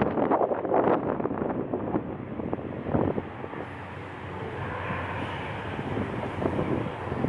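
Strong gusty wind buffeting the microphone, easing about three seconds in to a steady jet airliner engine noise with a faint high whine.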